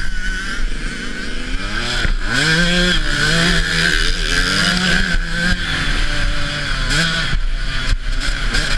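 Motocross dirt bike engine revving up and dropping back several times, with heavy wind noise on the microphone.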